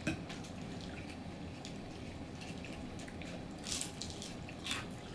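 Close-miked eating sounds: wet chewing and lip smacking, with a few short louder smacks over a steady low background hum.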